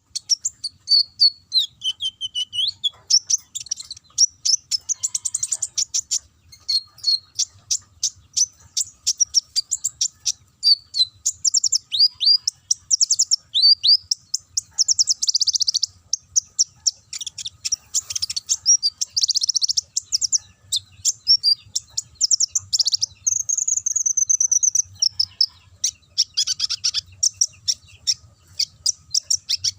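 Kolibri ninja sunbird singing continuously in rapid, high-pitched chirps, trills and short down-slurred notes, a canary-like song ('nembak kenarian').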